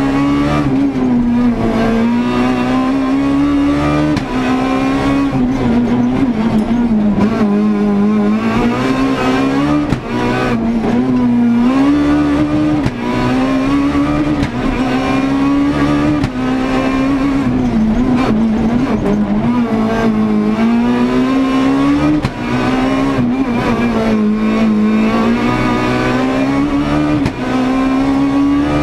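Renault Clio S1600 rally car's naturally aspirated 1.6-litre four-cylinder engine at full attack, heard from inside the cabin. The engine note repeatedly climbs and drops as the car is driven hard through the gears, with brief dips in level about every five or six seconds.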